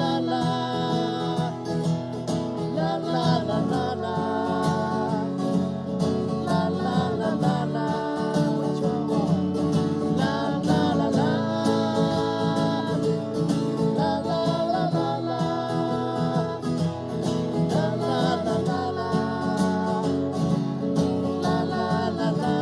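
Acoustic guitar playing a song, with a wavering melody line over the steady strummed chords.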